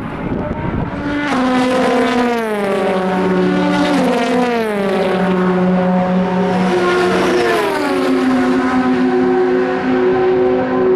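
Endurance race car's engine running at high revs, its note dropping in several clear steps and then holding steady.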